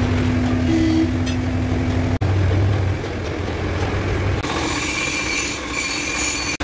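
Sany concrete mixer truck's diesel engine running with a low rumble and a steady hum. A short break comes about two seconds in, and past the middle a high-pitched squeal sets in over the engine.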